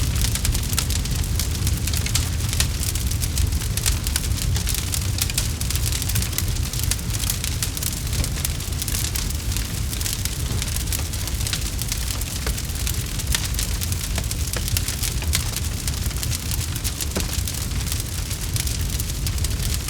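Wood campfire burning, with a steady low rumble of the flames and a constant scatter of sharp crackles and pops.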